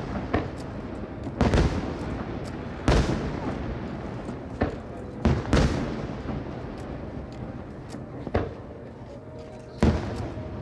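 Fireworks bursting: a string of sharp booms, about eight in ten seconds, each trailing off into a long echoing rumble, with two close together in the middle.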